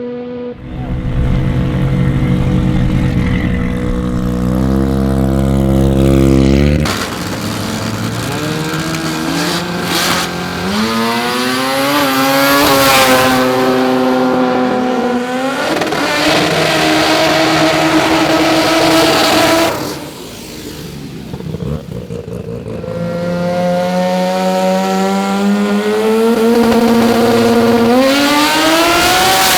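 Turbocharged Mazda rotary drag car engine at full throttle. It runs low and heavy for the first six or so seconds, then climbs in pitch again and again, dropping back at each gear change. About twenty seconds in it dips, then rises again.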